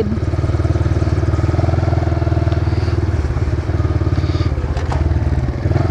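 Brand-new Kawasaki KLX140 dirt bike's single-cylinder four-stroke engine idling steadily.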